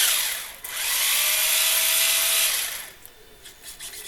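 Electric motor and four-wheel-drive gearbox of a Tamiya Hotshot RC buggy run up with its wheels spinning free in the air, holding a steady whir with a faint rising tone for about two seconds before winding down. Short, quiet mechanical ticks and whirs follow near the end.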